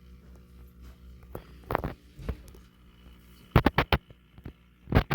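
A series of sharp knocks and clunks from objects being handled, including a quick cluster of four about three and a half seconds in and a loud one near the end, over a low steady hum.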